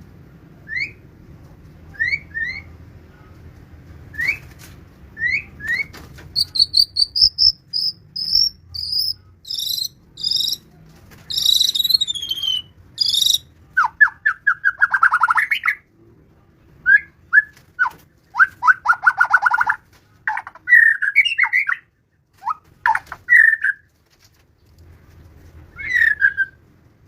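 White-rumped shama singing. It gives short rising whistled notes, then a quick run of high notes, then varied phrases that include rattling chatters, delivered in bursts with short pauses between them.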